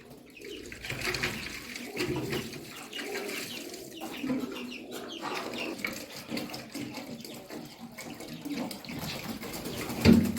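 Birds cooing and calling softly over a wash of water sounds, with a sharp knock near the end.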